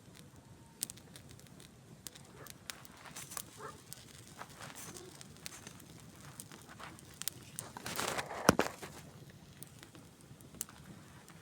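Campfire wood crackling with scattered sharp pops. About eight seconds in there is a louder flurry of crackling, ending in one loud snap.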